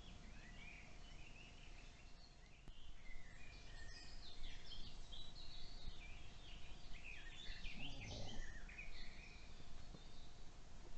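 Several songbirds singing, a busy run of chirping phrases over a faint steady hum, with one short low sound about eight seconds in.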